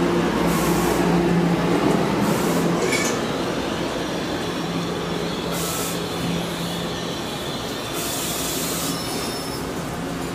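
NJ Transit bilevel commuter coaches rolling past at the platform and slowing as the train arrives, with a steady low hum and wheel rumble that eases after about three seconds. Several short high hisses come and go, the last one about a second long near the end.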